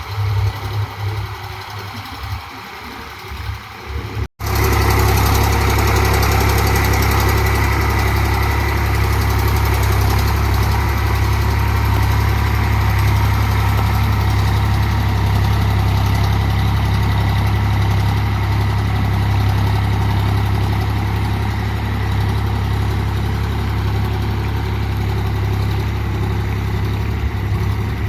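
Tractor diesel engine running. For about four seconds it is quieter and uneven, then after a sudden break it runs loud and steady with a deep rumble.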